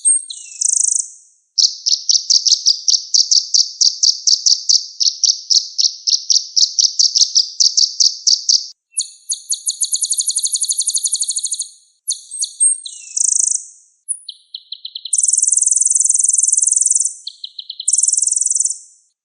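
Kolibri ninja (a sunbird) singing a loud, high-pitched song: a long run of quick repeated notes, about four a second, then a faster, higher trill, and later short buzzy phrases with brief pauses between them.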